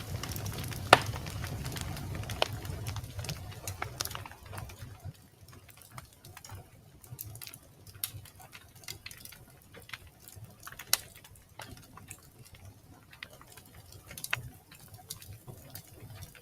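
Wood fire crackling, with irregular sharp pops and snaps, a loud one about a second in and another near the middle. A low rumble under the crackle drops away about a third of the way through.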